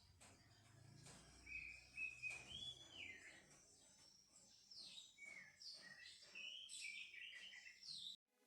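Faint birdsong: a series of short chirping calls that slide up and down in pitch, busier in the second half, cutting off abruptly near the end.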